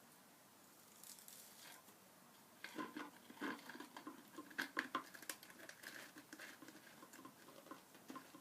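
Handling of a plastic bottle: irregular light clicks, taps and crinkles, starting about two and a half seconds in.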